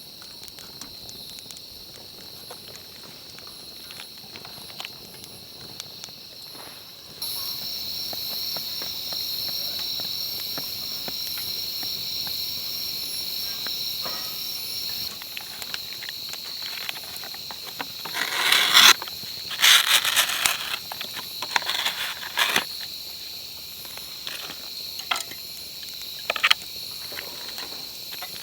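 Steady chorus of insects chirping, high-pitched and continuous, which gets suddenly louder about seven seconds in. Light clicks and crackles run through it, and a few louder rustling or handling noises come around two-thirds of the way through.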